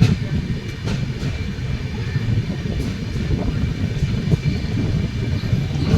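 Passenger express train's coaches rolling past with a steady rumble, and a few sharp clacks as the wheels cross rail joints.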